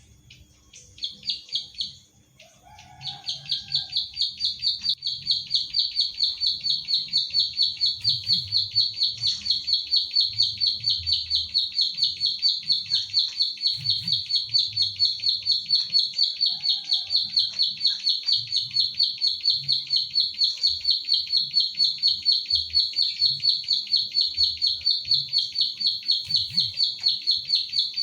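Ciblek sawah, a small prinia, singing its 'klik klik' song: a brief burst about a second in, then from about three seconds a long, unbroken run of rapid, high repeated notes pulsing about three to four times a second.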